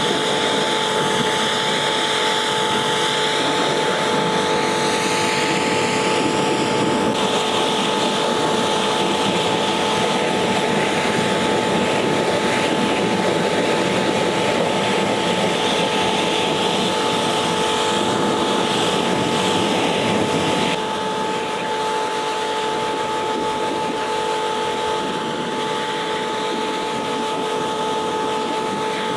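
Electric pressure washer running, a steady motor hum under the loud hiss of the high-pressure water jet spraying the bodywork; it steps slightly quieter about two-thirds of the way through.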